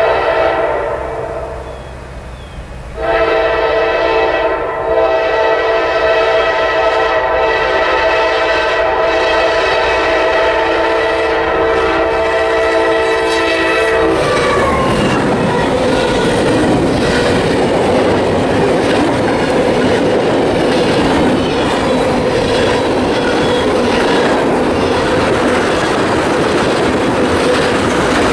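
Norfolk Southern diesel freight locomotive sounding its multi-note air horn: one blast dying away in the first couple of seconds, then a long steady blast of about eleven seconds that cuts off as the locomotive passes right by. After that, tank cars roll past with a steady rumble and the clickety-clack of wheels on the rail.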